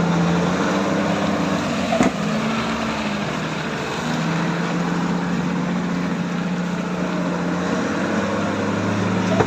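Vehicle engine running at a steady pitch, with one sharp knock about two seconds in.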